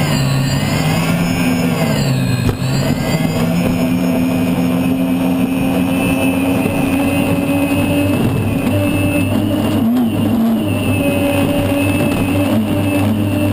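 Unlimited hydroplane's turbine engine heard onboard, running steadily and loud. Its pitch dips briefly about two seconds in and again near ten seconds.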